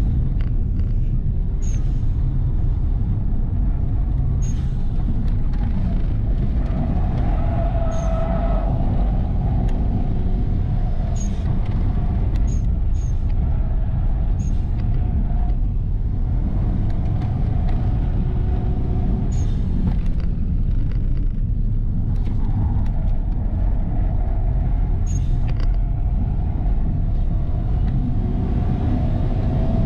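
A 2005 Subaru Legacy 2.0 turbo's engine and drivetrain running hard, heard from inside the cabin, with a continuous loud low rumble. A higher held note rises out of the rumble a few times, and brief sharp ticks are scattered through it.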